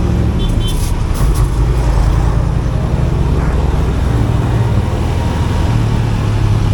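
Motorcycle riding in heavy traffic: a steady low rumble of engine and road noise. A couple of short, high horn beeps sound about half a second in.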